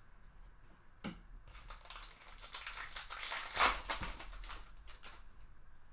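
Trading cards being handled and flicked through by hand, with crinkling of the pack's wrapper: a run of rustling and quick clicks, loudest about three and a half seconds in.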